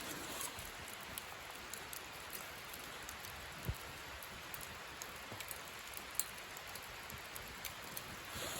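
Light rain falling, a steady soft hiss with scattered drop ticks and one dull thump a little past the middle.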